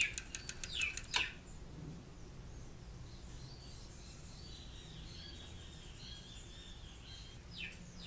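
Birds chirping and calling, with quick falling chirps, opening with a rapid run of high ticks in the first second and faint chirping after.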